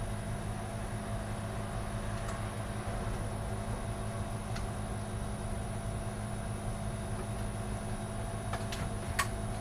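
Steady low electrical hum in the room, with a few faint clicks and taps as a floppy-drive ribbon cable is pushed onto its connector. The sharpest clicks come near the end, as the connector seats.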